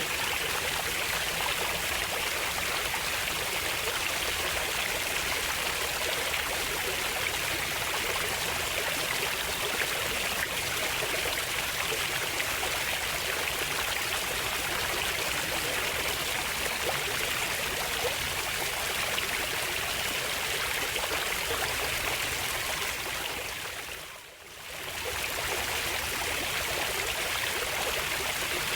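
Flowing stream water rushing steadily. It briefly fades down and comes back up about 24 seconds in.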